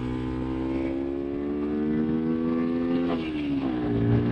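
Motorcycle engine under way, its pitch climbing steadily as it accelerates. About three seconds in the revs drop sharply, as at a shift up a gear, then begin to climb again.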